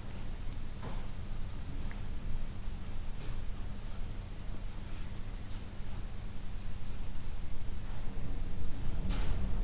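A soft 2B graphite pencil scratching on sketchbook paper in short, irregular sketching strokes with brief pauses, over a steady low hum.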